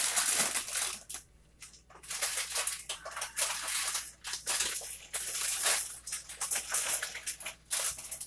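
Crisp, irregular crackling and crunching from tortilla chips and their plastic bag being handled, in bursts of a second or so with short pauses between.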